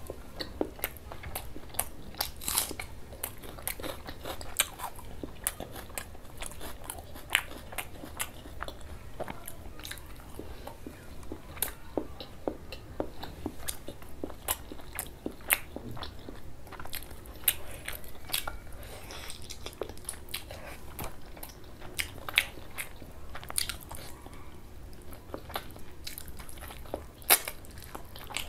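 Close-miked mouth sounds of a person eating meat curry and dal puri by hand: wet chewing with many irregular sharp lip-smacks and clicks.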